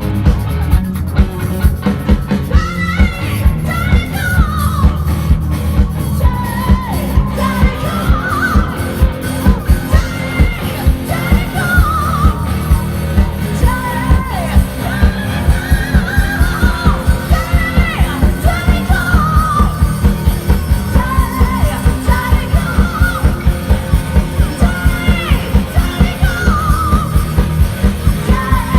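Live rock band playing loud: a fast, steady drum beat that tightens into an even driving pulse in the second half, with a bending melodic lead line on top.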